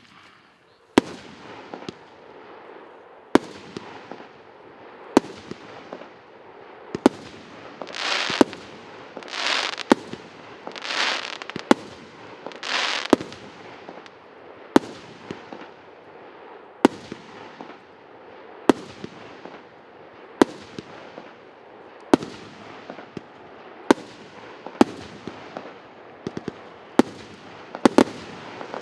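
"По поводу" ES640 consumer fireworks battery (multi-shot cake) firing its shots one after another, about one every two seconds. Each shot is a sharp bang followed by a fading hiss of the burst, and a run of louder, longer bursts comes in the middle.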